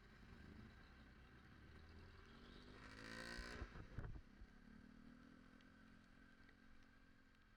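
Motor vehicle engine in street traffic: the sound swells to a peak and its pitch drops sharply about four seconds in, as a vehicle passes close by. A steadier, lower engine drone follows.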